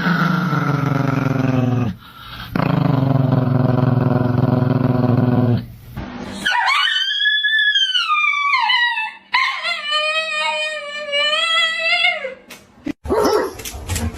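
A dog vocalising: two long, low, rough sounds, then two long high-pitched calls, the first rising and falling in pitch, the second held more evenly.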